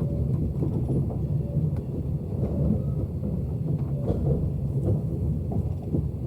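Train in motion: a steady low rumble with scattered small clicks and rattles, and a faint thin tone coming and going.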